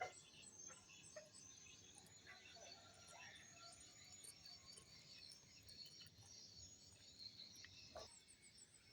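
Near silence: faint background ambience with scattered short high-pitched chirps.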